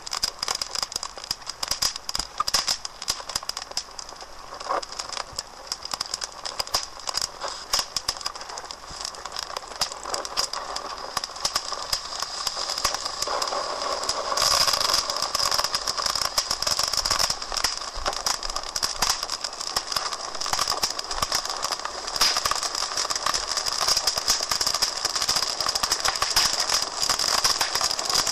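Wood fire burning in a fireplace, crackling with many irregular sharp pops over a steady high hiss, getting louder about halfway through.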